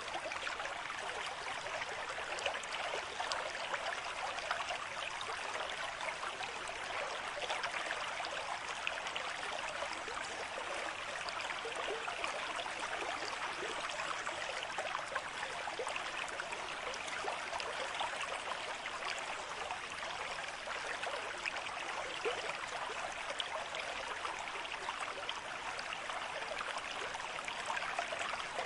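Stream water running and trickling steadily, a constant babble of small splashes.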